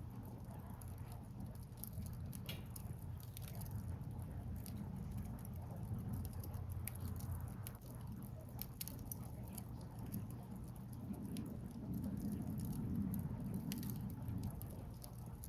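Wood fire crackling: irregular sharp snaps and pops from burning firewood over a steady low rushing background.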